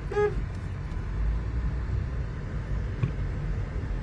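Low, steady rumble of a car running, heard from inside the cabin.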